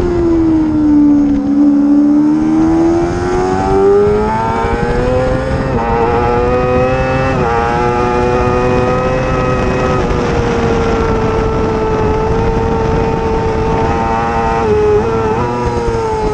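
Racing motorcycle engine at high revs. The pitch drops at first, climbs through the gears with short steps at the shifts, holds high and steady for several seconds, then dips briefly and falls near the end.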